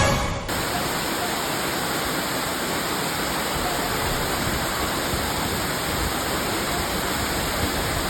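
Steady rush of a waterfall: an even, unbroken roar of falling water. It follows background music that cuts off about half a second in.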